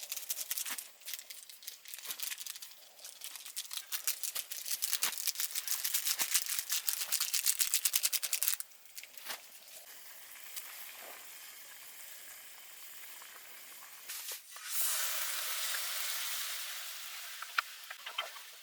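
Food sizzling and spitting in a hot pan, with dense crackling that builds and then cuts off sharply about halfway through. Later, a loud hiss of frying flares up and fades over a couple of seconds.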